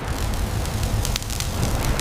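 A steady, low rumbling roar with faint crackling in it.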